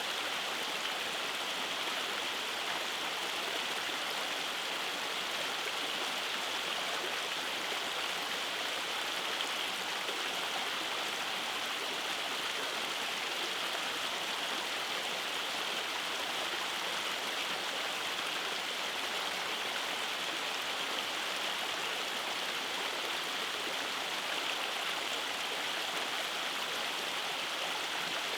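Rainforest stream running over small cascades: a steady, even rush of flowing water.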